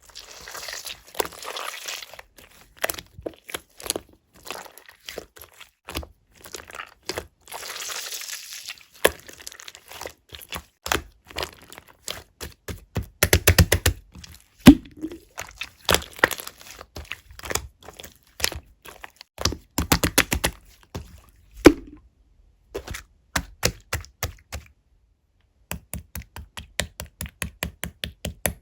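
Melted, runny pink translucent slime being pressed and squeezed by hand, giving runs of wet crackling clicks and pops, with a few louder air-bubble pops.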